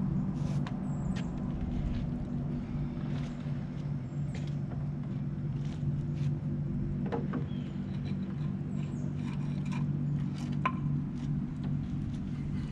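A small engine or motor running steadily, with scattered light clicks and knocks over it.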